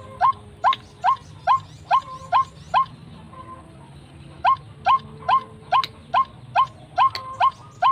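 White-breasted waterhen calls: a short note with a rising sweep, repeated about twice a second. The calls break off for about a second and a half midway, then resume at the same pace.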